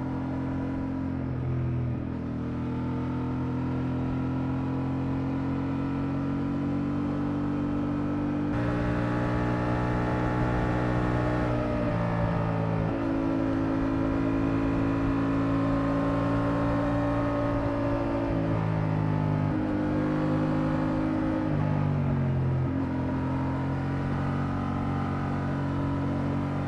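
Honda Transalp 750's parallel-twin engine under way, its note holding steady for a few seconds at a time and then stepping up or down with throttle and gear changes through the bends.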